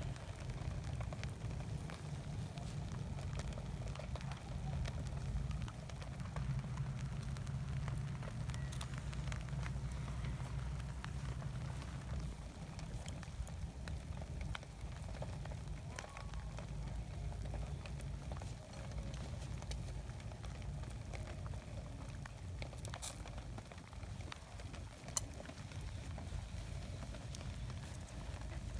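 Small wood campfire catching, with scattered sharp crackles from burning kindling and resinous ocote pine over a faint steady hiss of light drizzle. A low steady rumble runs underneath.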